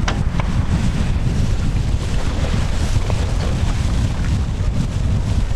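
Heavy wind buffeting the microphone over the steady rush of water along the hulls of a Tornado catamaran sailing fast in strong wind.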